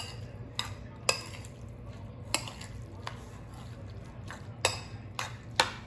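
A utensil stirring a filling in a bowl, with a series of irregular clinks and taps against the bowl.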